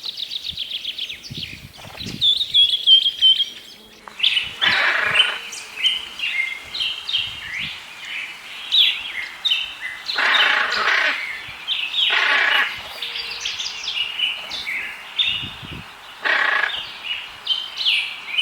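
Birds calling: quick high chirps for the first few seconds, then four loud, harsh calls at intervals among continued chirping.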